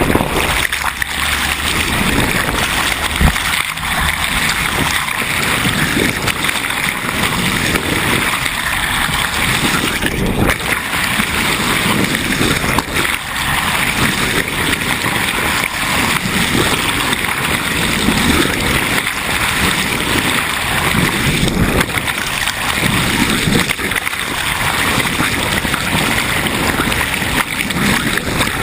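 Water splashing and gurgling along the hull of a sailboat under way, a steady wash of noise with irregular low surges.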